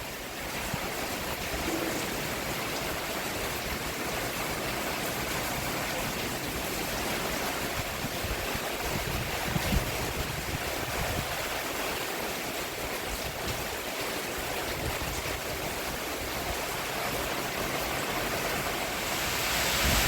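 Steady rain falling on a roof, swelling a little near the end.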